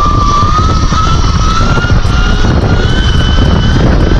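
Sur-Ron electric dirt bike's motor whining, its pitch rising slowly as the bike gathers speed, over heavy low wind rumble on a helmet-mounted microphone.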